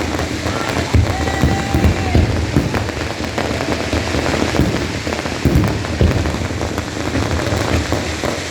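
Fireworks display: dense crackling, like rain, with frequent low booms throughout.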